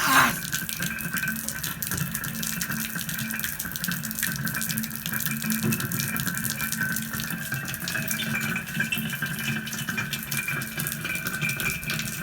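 Water running steadily from a tap and splashing, with steady tones underneath.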